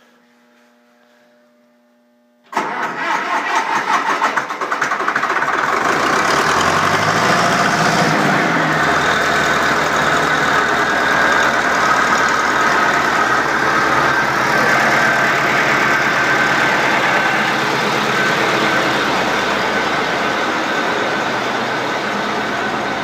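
A 1972 Case 770's 267 cubic inch naturally aspirated four-cylinder diesel cold-starting after a faint steady hum. About two and a half seconds in it bursts into life and runs unevenly for a couple of seconds. It then picks up speed and settles into steady running.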